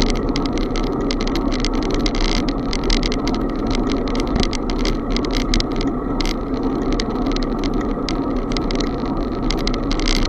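Bicycle riding along: a steady rumble of wind and tyres on the road, with rapid, irregular rattling ticks throughout.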